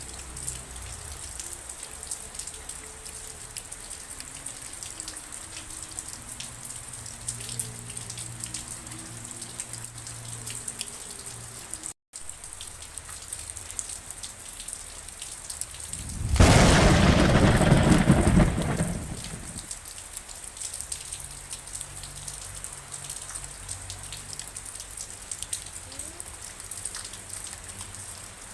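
Steady rain falling, with many individual drops ticking on surfaces. About sixteen seconds in, a loud clap of thunder starts suddenly and rumbles away over about three seconds. The sound cuts out for an instant about twelve seconds in.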